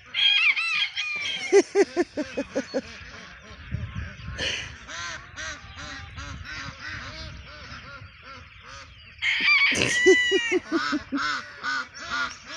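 Ducks and other poultry calling together, with fast runs of quacks over higher calls. There are two loud bursts of calling, one at the start and one about nine seconds in.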